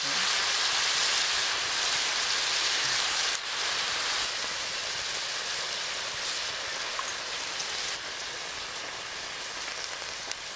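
Food frying in hot oil in a cooking pot, a steady sizzling hiss that slowly dies down.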